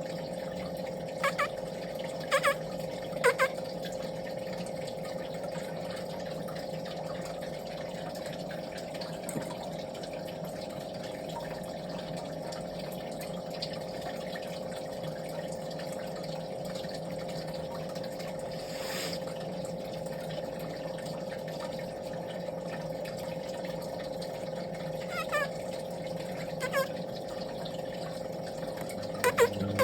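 A few short, high chirps from baby birds, three about a second apart near the start and a few more near the end, over a steady hum with a watery hiss.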